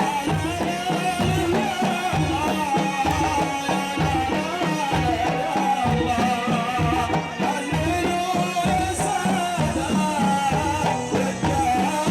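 Saudi Gulf folk band music: drums beating a steady rhythm under a wavering melody line, with no words sung.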